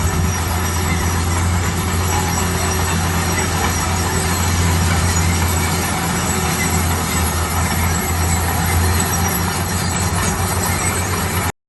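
Heavy construction machinery running steadily: a deep engine drone under a broad mechanical rumble. It cuts off suddenly near the end.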